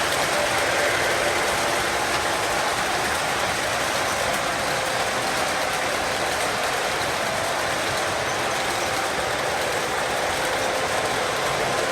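Long freight train passing, its wagons rolling on the rails in a steady, even noise with faint held tones.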